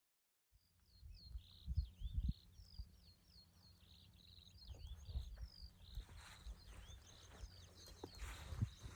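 Small songbirds singing, a busy run of quick, high, slurred chirps that starts about half a second in. Wind rumbles on the microphone underneath, with a few louder bumps about two seconds in.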